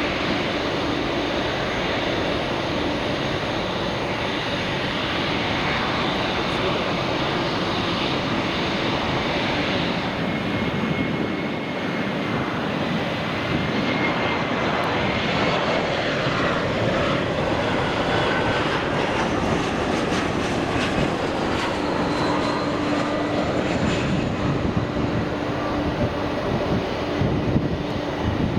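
Jet airliner engines running loud and steady, a continuous rushing roar with a faint whine that drifts gently in pitch midway.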